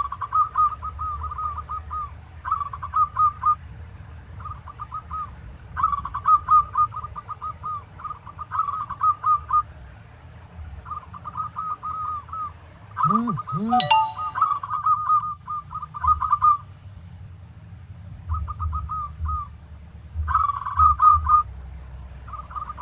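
Zebra dove (perkutut) calling: repeated phrases of rapid soft cooing notes, each about a second long with short pauses between them. About 13 seconds in, a lower call with a pair of rising-and-falling notes briefly overlaps the phrases.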